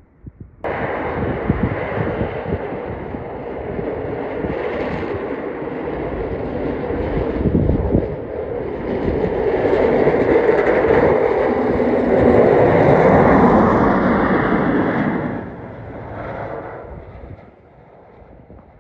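Heavy road traffic passing close by, most likely a tractor-trailer: a steady roar of diesel engine and tyre noise that starts suddenly, grows louder to a peak about two-thirds of the way in, then fades away.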